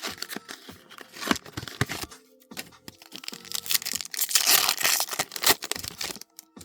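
Foil booster pack wrapper being crinkled and torn open, a rapid run of crackles with a louder stretch of tearing about four seconds in that stops shortly before the end.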